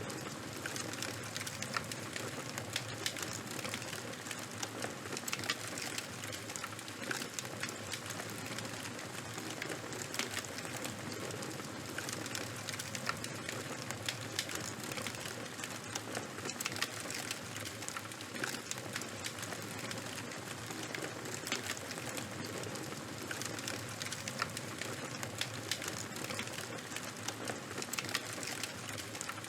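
Charcoal fire burning: a steady hiss with frequent small, irregular crackles and pops.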